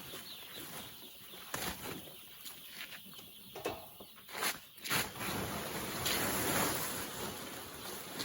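Chickens flapping their wings and stirring, with a few sharp clicks over a rustling noise.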